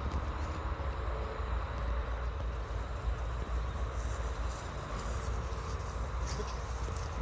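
Steady outdoor background rumble, with a few faint ticks.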